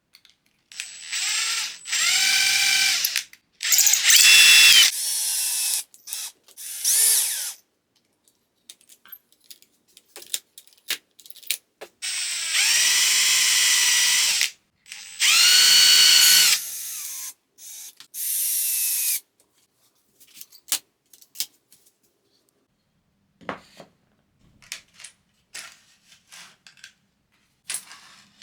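A handheld power tool's motor runs in several short bursts of one to three seconds each, in two groups. Each burst is a high whine that rises in pitch as the motor spins up, then holds steady. Faint clicks and handling noises follow.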